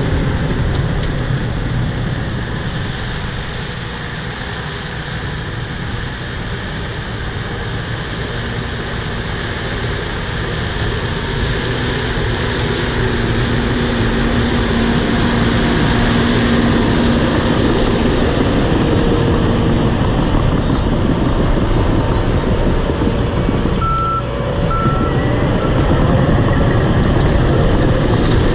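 Bulldozer's diesel engine and tracks running steadily as it pushes topsoil, with two short beeps from its alarm near the end.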